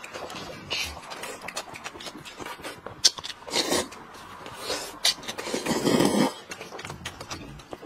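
Eating sounds at a table: chewing with scattered clicks and scrapes of utensils against dishes, and two louder noisy bursts, one about three and a half seconds in and one near six seconds.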